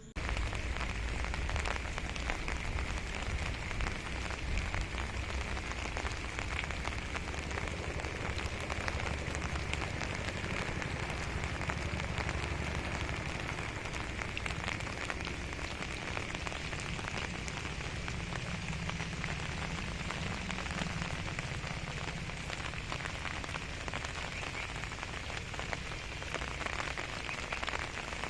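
Heavy rain falling steadily: a dense, even patter of drops with a low rumble underneath.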